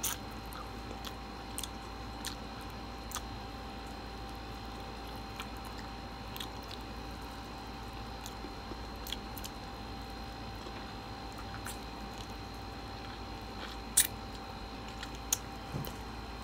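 A person chewing and biting into a sauced chicken wing, with soft wet chewing and scattered mouth clicks. There are a couple of sharper clicks near the end, all over a steady faint hum.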